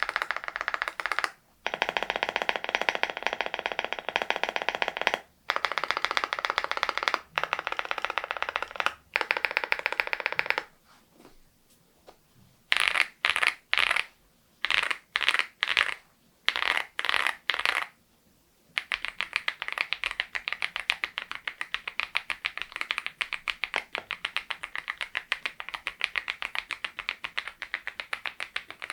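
Typing on a Geekstar GKG87R tenkeyless mechanical keyboard fitted with Balhae Blue tactile switches. There are bursts of rapid keystrokes with short pauses, then a handful of separate, sharper key strokes about halfway through, then a steady stream of fast typing.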